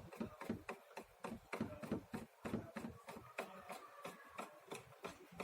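Irregular light clicks and scrapes of a small screw being turned with a screwdriver to clamp a wire to a terminal inside a facial steamer, several clicks a second.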